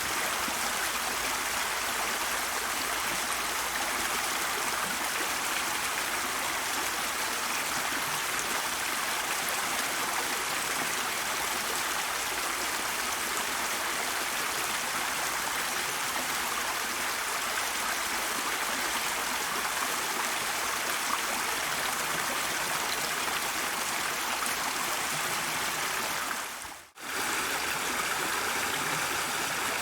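Stream water flowing steadily, an even rushing and trickling. The sound dips away for a moment near the end and then resumes.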